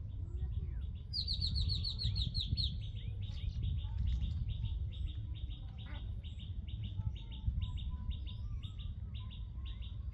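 Small birds chirping: a quick run of about eight falling chirps about a second in, then repeated chirping, several notes a second, over a steady low rumble.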